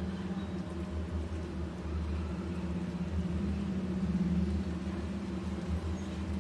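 A steady low mechanical hum, like a motor or engine running, swelling a little about four seconds in.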